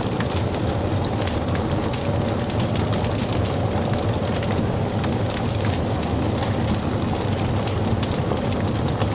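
Wood fire burning: a steady low rumble of flames under many quick crackles and small pops of the burning wood.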